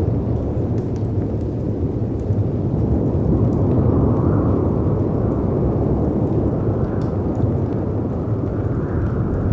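Storm ambience: a steady low rumble of wind and sea surf that swells a few times, with faint crackles and pops from a fireplace over it.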